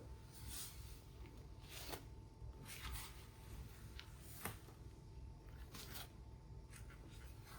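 Faint, intermittent soft swishes with a few light clicks and taps, the quiet handling noises of household cleaning.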